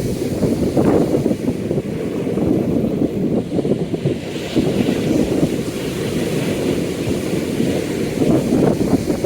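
Gale-force wind buffeting the microphone in a heavy, gusting low rumble, with waves washing on the lake under it.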